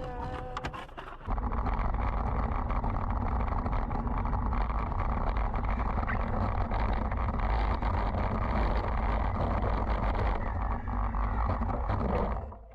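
Steady rumble of a moving vehicle, the road and wind noise heard on a dashcam, starting abruptly about a second in.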